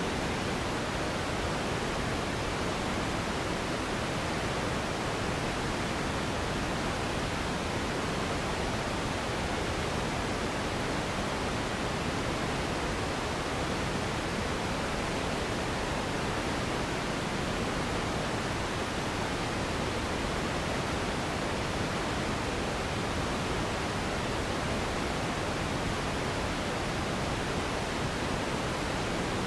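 Steady synthetic pink noise for sleep: an even, unchanging hiss spread across the whole range, softer in the highest frequencies.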